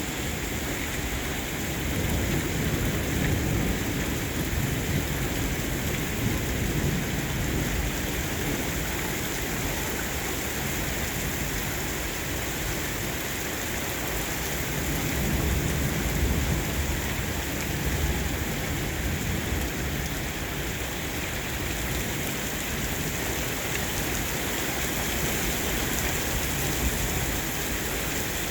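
Rain falling steadily and heavily during a thunderstorm, with a deep low rumble swelling up twice, once a few seconds in and again about halfway through.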